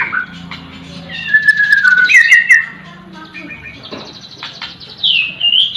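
Songbirds chirping and whistling: a run of quick gliding notes about a second in, a faster trill around the middle, and a loud falling call near the end.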